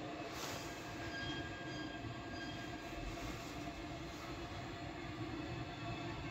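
Deutsche Bahn ICE 4 high-speed train rolling slowly into a platform, a steady low rumble with faint high-pitched squealing tones from the wheels and brakes.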